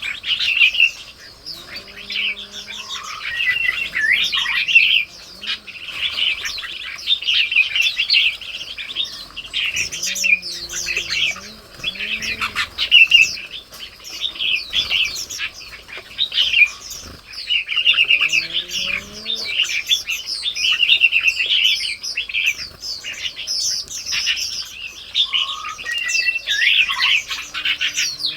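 Small songbirds chirping and twittering constantly, with many short, quick calls overlapping. Faint, low, sliding calls sound now and then underneath.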